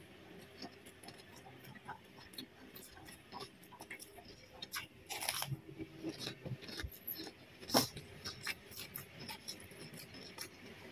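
Close-up mouth sounds of a person chewing egg fried rice and raw cucumber: soft, faint chewing with scattered small crunches and louder crunches about five and eight seconds in.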